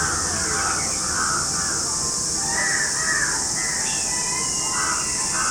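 Crows cawing over and over in a loose series of short, hoarse calls, with a steady high-pitched hiss behind them.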